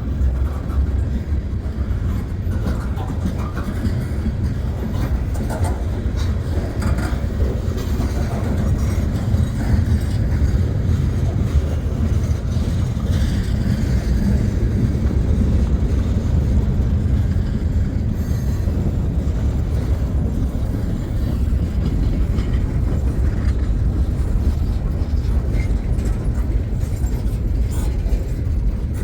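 Freight cars of a long freight train rolling past, a steady loud rumble of steel wheels on rail with light clicking over the rail joints.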